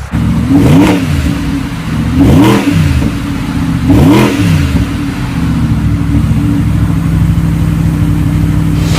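A 2015 Porsche 911 Turbo's 3.8-litre twin-turbo flat-six is blipped three times, each rev rising and dropping quickly, then settles into a steady idle.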